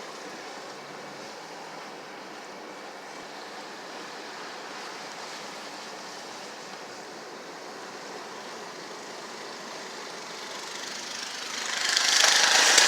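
Steady rushing noise of street traffic on a snowy road. Near the end it swells into a much louder hiss.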